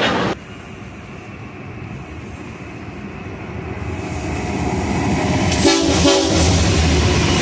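Train approaching and growing steadily louder, with a short horn blast about six seconds in, followed by a heavy low rumble as it draws near.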